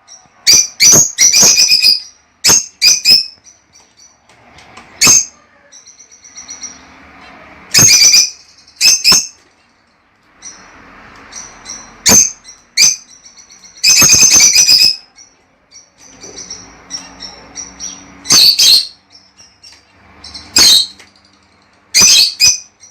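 Lovebirds calling: sharp, shrill chirps in short clusters every few seconds, with quieter chattering in between.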